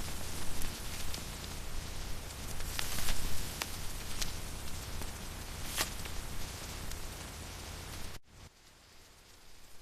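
Steady rain, with a low rumble underneath and a few scattered sharp ticks. About eight seconds in it cuts off suddenly to a much quieter, thinner hiss.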